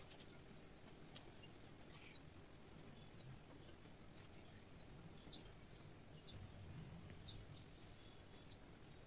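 Near silence with a bird faintly chirping in the background: short high chirps repeated about once or twice a second, starting a couple of seconds in.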